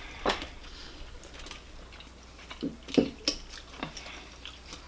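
Eating at a seafood-boil table: a handful of short, scattered clicks and soft chewing noises, with no talk.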